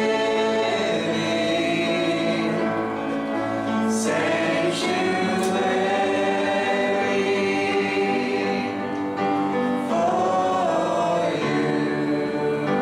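Choir singing a gospel worship song with instrumental accompaniment, in held, sustained chords.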